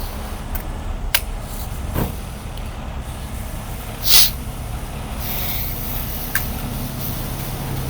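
Heavy tow truck's diesel engine running steadily, with a few sharp clicks and a short hiss of released air about four seconds in. The engine drone grows a little stronger from about five seconds in.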